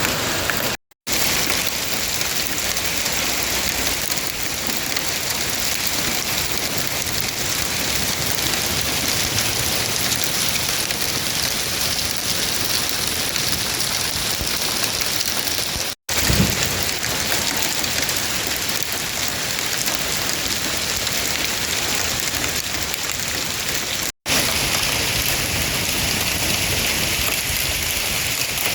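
Heavy downpour pounding steadily on surfaces, broken three times by a split-second silent gap.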